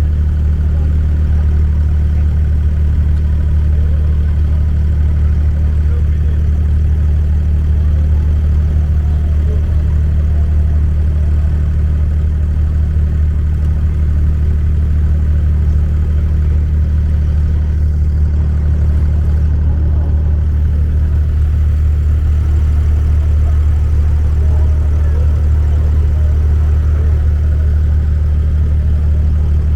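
Boat engine running with a steady, unchanging low drone.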